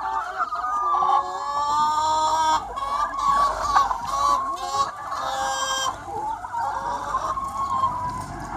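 A large free-range chicken flock clucking and calling over one another without a break. Two longer, brighter calls stand out above the chatter, one about a second in and one near the middle.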